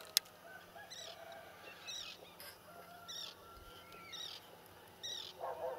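Birds calling over open water: a faint, short high call repeated about once a second, joined near the end by a lower, rapid run of calls. A single sharp click sounds just after the start.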